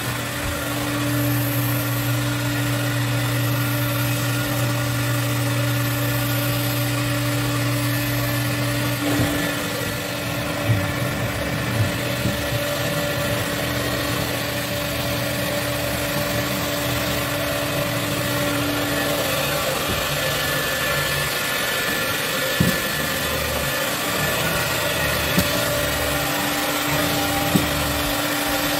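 Carpet-cleaning extraction machine running with a steady, loud hum. Its low drone changes and becomes more uneven about nine seconds in, and a few sharp clicks come in the second half.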